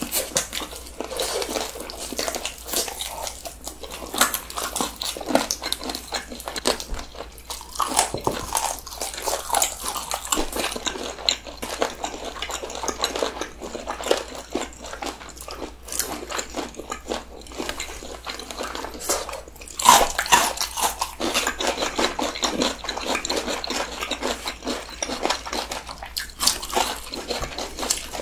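Close-miked chewing and biting of crunchy, seasoned fried snacks: a dense run of small crunches and mouth clicks, with one louder bite about two thirds of the way through.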